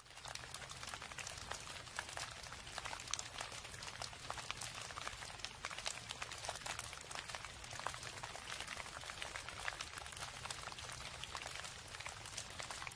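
Steady rain: a dense, even spray of drop impacts over a low steady rumble.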